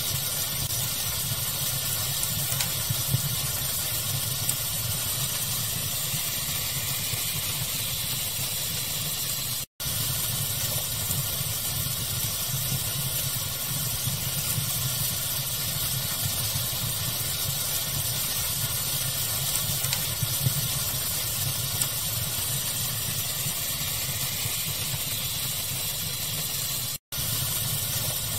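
Crackling fire ambience mixed with steady pink noise: an even hiss over a low rumble, with occasional faint pops. The sound cuts out for an instant twice, about ten seconds in and again near the end.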